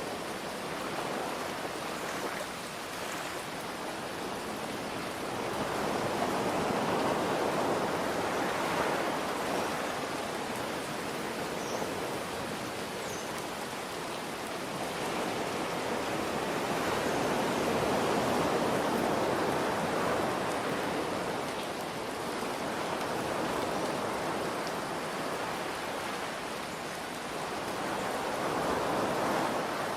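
Ocean surf rising and falling in slow swells about every ten seconds, under a steady hiss of rain.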